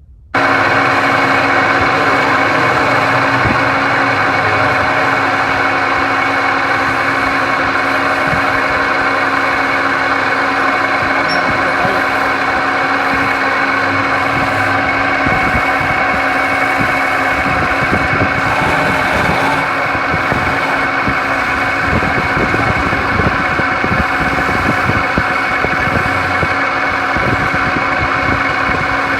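Woodturning lathe running steadily and loudly, its motor giving a constant hum. It cuts in abruptly about half a second in.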